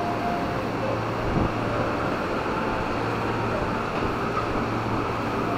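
A moving train heard from inside the carriage: a steady rumble of wheels on rails with a low, even hum, and one brief knock about a second and a half in.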